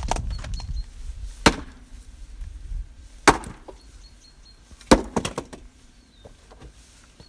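Axe blows striking wood, as in chopping or splitting logs: four sharp, loud strikes roughly one every one and a half to two seconds, then no more strikes for the last couple of seconds.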